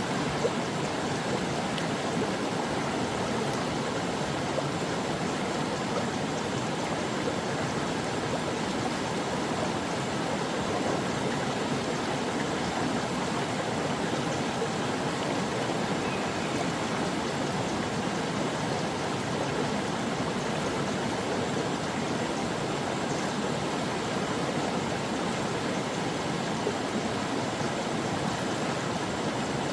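Stream water flowing and gurgling over rocks, a steady rushing sound.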